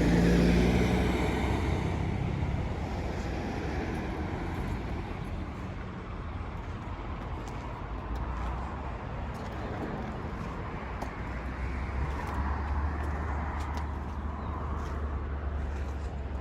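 Outdoor vehicle traffic: a steady low rumble and hiss of passing cars and trucks. It fades over the first few seconds and swells again about twelve seconds in, with a few faint ticks.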